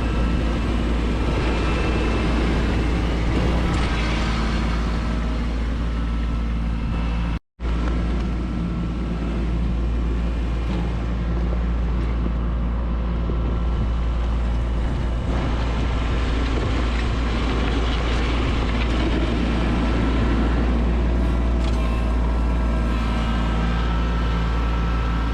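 Kubota B2601 compact tractor's three-cylinder diesel engine running steadily under working load. The sound cuts out completely for a moment about seven and a half seconds in.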